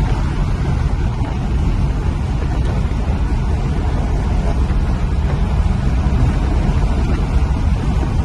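A car driving at a steady pace: a continuous low rumble of engine and road noise.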